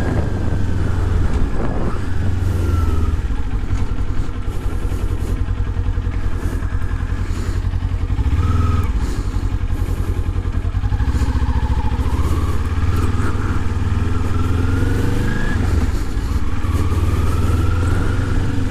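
Motorcycle engine running under way, its pitch rising and falling with speed, over a heavy low rumble.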